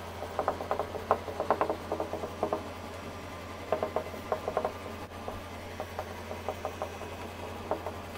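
Dry-erase marker writing on a whiteboard: short squeaking strokes in quick runs, a busy run over the first two and a half seconds, another about four seconds in, and a few more near the end.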